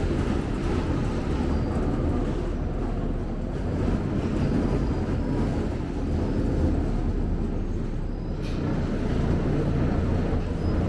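Scania K270UB bus's rear-mounted five-cylinder diesel engine running, heard inside the passenger cabin as a steady low rumble.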